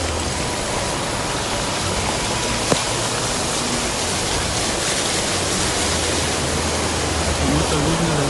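Steady rushing noise of heavy rain and wind heard from a car, with a low engine and road rumble underneath and one sharp click about three seconds in.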